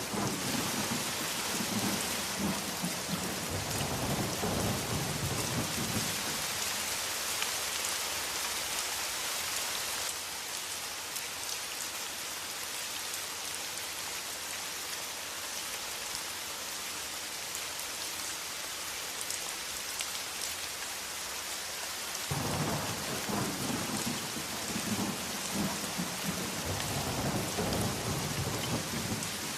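Steady rain hissing, with thunder rumbling low during the first six seconds or so and again in the last quarter.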